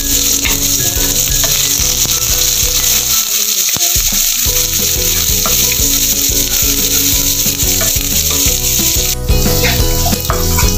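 Ground shallot, garlic and dried-shrimp spice paste sizzling in hot oil in a wok, stirred with a wooden spatula that scrapes through it, more often near the end.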